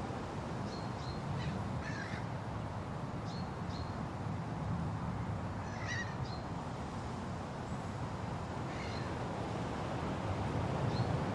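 Steady wind rushing through forest trees, with short bird calls breaking in every couple of seconds, the clearest bunched around two seconds in and again near six seconds.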